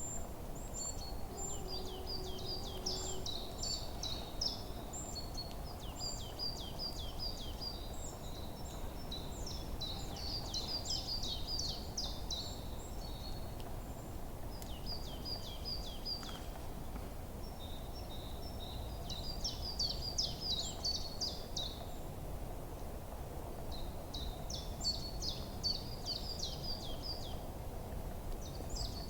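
Forest songbirds chirping in repeated quick phrases of high notes, coming in several bouts with short pauses between them, over a steady low background noise.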